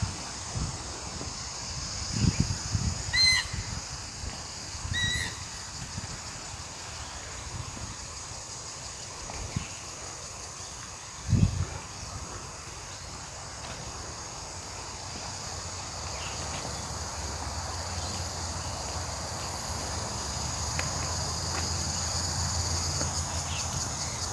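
Insects chirring steadily, a little louder toward the end, with two short bird chirps a few seconds in and a few soft low thumps.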